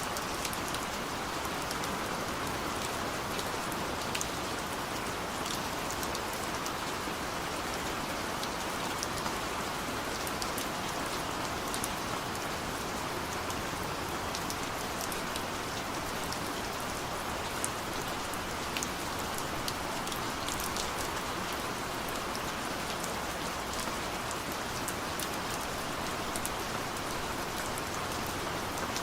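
Heavy rain falling in a steady downpour, with individual drops ticking sharply here and there over the even hiss.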